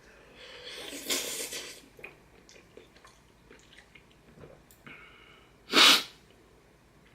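A man eating extra-spicy instant noodles makes mouth and breath sounds: a drawn-out breathy sound about a second in, then one short, sharp burst of breath just before six seconds, the loudest sound.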